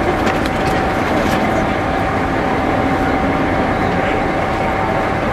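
Diesel railcar idling at the platform: a steady engine rumble with a steady hum running through it.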